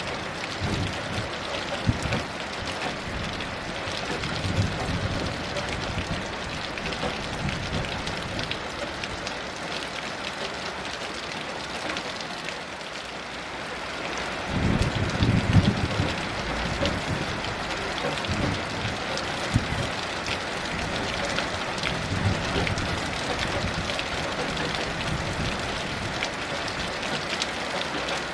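Steady heavy rain with low rolls of thunder that swell and fade several times, the loudest rumble about halfway through.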